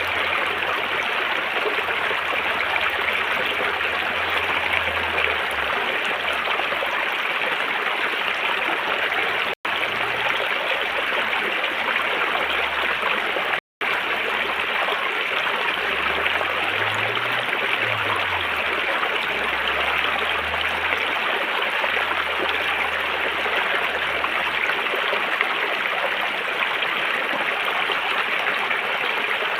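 River water rushing steadily over rocks, an even flowing hiss. Two very short dropouts to silence cut it, about 9.5 and 13.5 seconds in.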